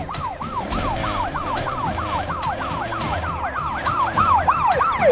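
Cartoon police car siren yelping, a rapid rise-and-fall about three times a second, with a second siren overlapping it in the second half, over a low vehicle rumble.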